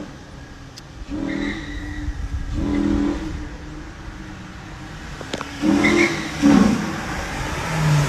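Dodge Ram pickup's swapped-in engine revved in short bursts several times, each rev rising and falling, the last and loudest about six seconds in.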